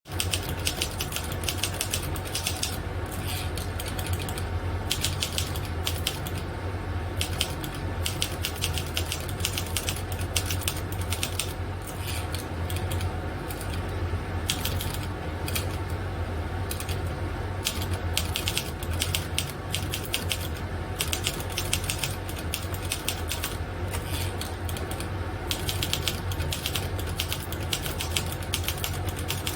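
Fast, continuous typing: a dense run of key clicks with brief let-ups, over a steady low hum.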